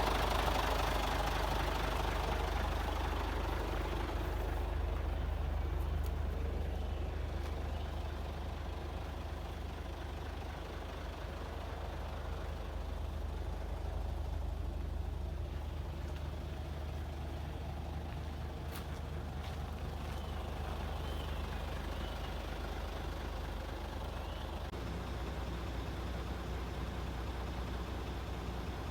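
Scania truck's diesel engine idling steadily with a deep, even hum.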